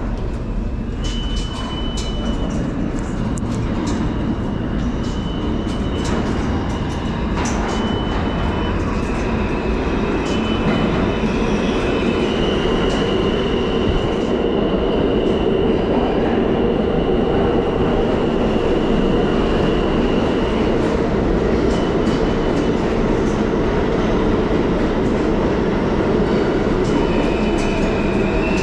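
New York City subway train running between stations: a steady, loud rumble with clicks from the rails and a high-pitched wheel squeal that comes and goes, held longest through the middle.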